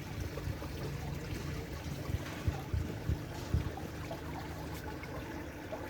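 Running water trickling steadily, with a few soft low knocks about halfway through.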